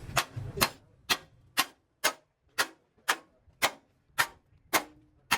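Steady hammer blows on metal, about two strikes a second, with a short ring after the later blows.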